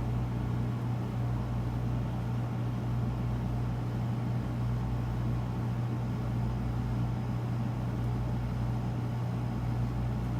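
A steady low hum with an even hiss over it, unchanging throughout, with no distinct handling sounds.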